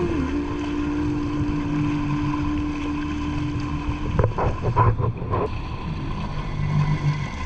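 Jet ski engine running, with wind on the microphone; the sound turns rougher and more uneven about four to five and a half seconds in.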